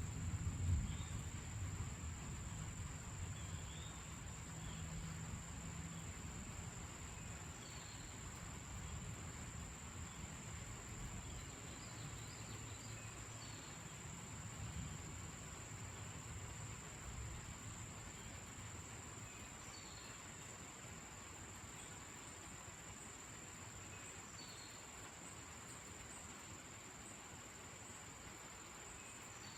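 A low rumble of distant thunder that fades away over the first two-thirds, under a steady high trill of crickets with scattered short chirps.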